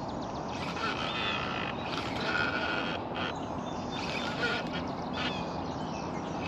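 Birds calling around open water: many short calls repeating irregularly, over a steady low background noise.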